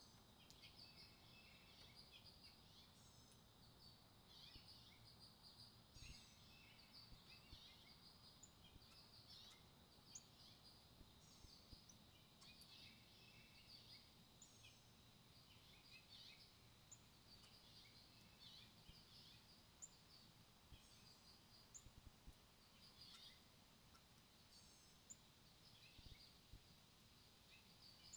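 Faint, scattered chirps and short calls of small songbirds, several notes every second or two, over a quiet steady background.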